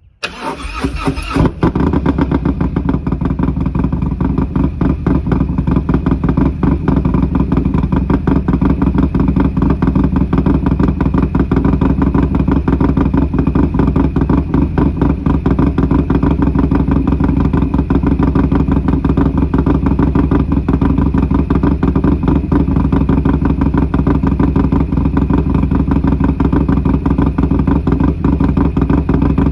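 Harley-Davidson Milwaukee-Eight V-twin in a 2022 Street Glide Special, with a stage 2 cam, ported intake manifold and Bassani 2-into-1 mid-length exhaust, started from cold. It catches almost at once with a brief louder flare, then settles into a steady idle with an even pulsing beat.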